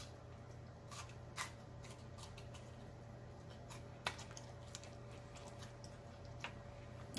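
Close-miked chewing: faint wet mouth sounds with a few sharp crunches and clicks scattered through, over a steady low electrical hum.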